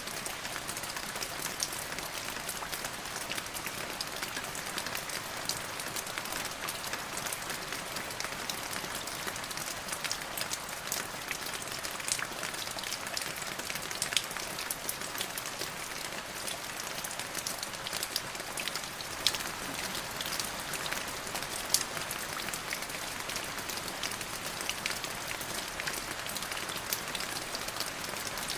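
Steady rain falling on a surface, a dense patter of drops with a few louder individual drop hits standing out.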